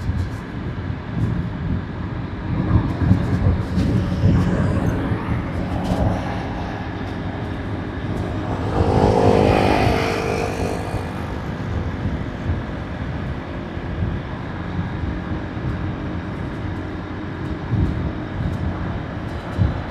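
Steady low rumble of a motorbike riding along a road: its engine together with road and wind noise. About nine seconds in, a louder swell rises and fades over roughly two seconds as passing traffic goes by.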